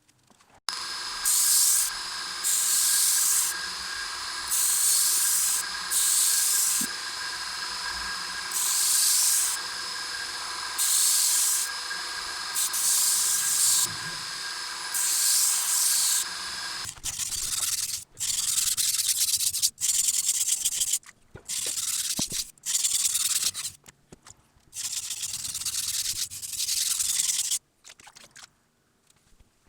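Abrasive sanding of a Damascus steel knife blade in repeated passes. For the first half a machine runs with a steady hum while the blade is pressed to it about every two seconds; then the hum stops and the sanding continues in short spells with gaps.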